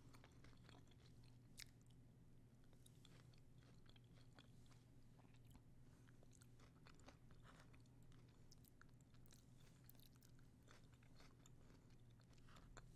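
Faint close-miked chewing of a crunchy homemade taco: soft, irregular little crunches and mouth clicks over a steady low hum.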